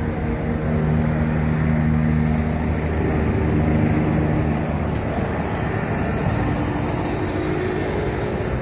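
A steady engine drone with a low, even hum over street noise.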